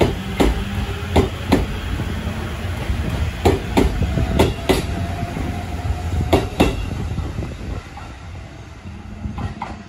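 JR East E257 series electric limited express running past and away: its wheels knock over rail joints in quick pairs above a steady low rumble. The rumble fades after the last car passes, leaving faint knocks near the end.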